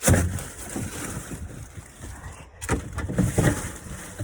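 Wind buffeting the microphone: a rushing rumble and hiss that surges twice, at the start and again about three seconds in.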